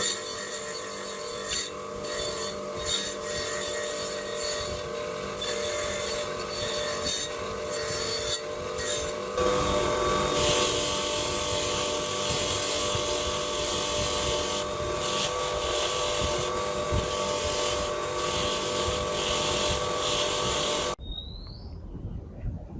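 A power tool running under load against a workpiece, with a steady hum under dense scraping; the sound shifts about nine seconds in and cuts off suddenly near the end. A bird chirps twice after it stops.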